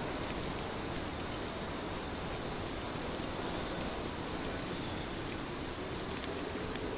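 Heavy rain falling steadily, an even hiss with single drops ticking through it.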